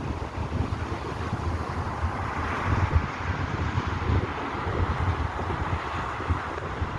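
Wind buffeting the microphone in uneven low rumbles, over the steady noise of road traffic, which swells a little midway as a vehicle goes by.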